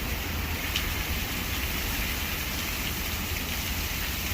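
Heavy rain falling in a storm, with strong wind buffeting the microphone as a steady low rumble under the hiss of the rain.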